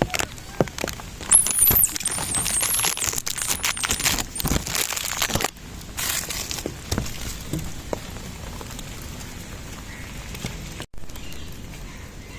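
Rain pattering, with many small clicks and taps. A run of very high, wavering squeals comes about one to five seconds in.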